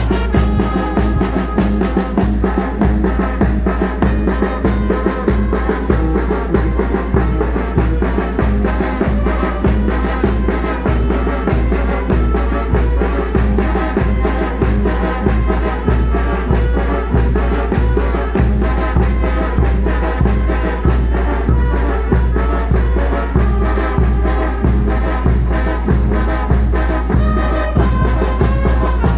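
Oaxacan brass band (banda de viento) playing: brass melody over a steady bass line and a regular beat of drums. Cymbal strokes come in about two seconds in and drop out near the end.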